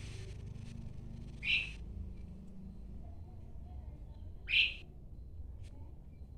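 Asian pied starling (jalak suren) giving two short, harsh calls, about three seconds apart.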